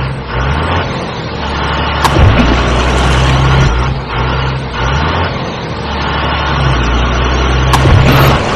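Heavy truck engine running steadily with small shifts in pitch, with a sharp click about two seconds in followed by a brief hiss, and another click near the end.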